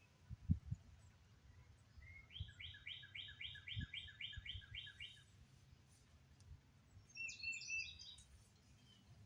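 A songbird singing a run of about ten quick, evenly repeated notes, followed near the end by a shorter, higher-pitched phrase. A few low thumps, the loudest about half a second in.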